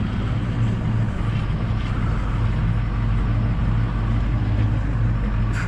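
Tow truck's engine running steadily with a low, even hum during a winching recovery.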